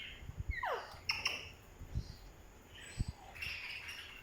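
Pet parrot calling: a whistle falling steeply in pitch about half a second in, then short chirps and a longer, noisier call near the end, with a few low thumps in between.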